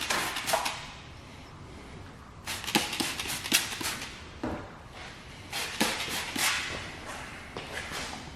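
A trigger spray bottle of slip solution giving several short spritzes in a few clusters, among scattered small clicks and handling noises.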